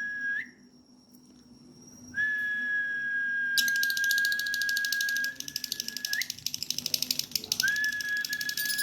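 Female lovebird 'ngekek': rapid, rhythmic chattering that starts a little over a third of the way in and keeps going. Under it, a steady high whistle-like tone breaks off with a short upward flick, stops briefly, then sounds again.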